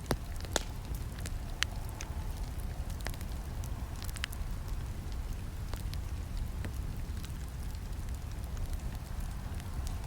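Campfire burning: a steady low rumble of flames with scattered sharp crackles and pops from the wood, a few louder snaps in the first couple of seconds.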